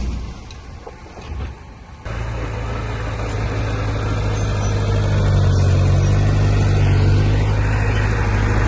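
Heavy diesel engine of an earth-moving machine running steadily with a deep, even hum. It comes in suddenly about two seconds in, after a quieter stretch with a few faint knocks.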